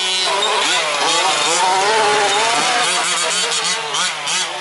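Several 1/5-scale RC trucks' small two-stroke petrol engines buzzing together, revving up and down as they race, with choppier throttle blips near the end.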